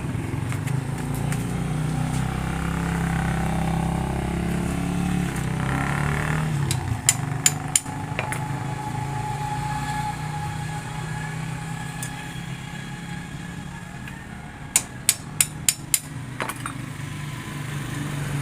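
Motorcycle engine running steadily, easing off partway through and building again near the end. Sharp clicks cut across it: three close together partway through and a quick run of five later on.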